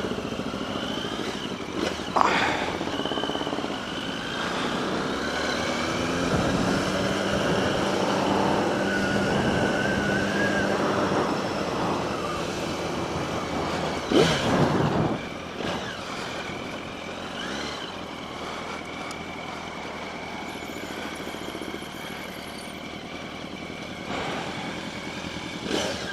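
Motorcycle riding on the road, its engine note rising and falling over steady wind and road noise, with two louder swells about two seconds in and about fourteen seconds in.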